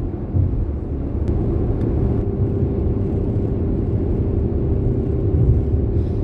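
Steady low road and engine rumble inside a moving car's cabin at highway speed, with a thin steady hum that comes in about a second and a half in.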